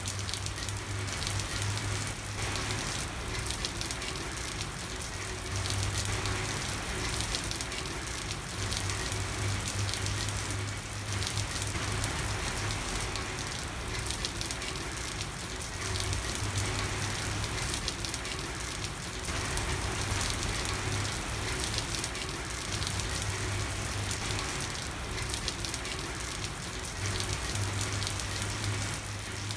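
Steady rain falling on a street: an even hiss of rain with scattered drops. Under it, a low hum that swells in and fades out every few seconds.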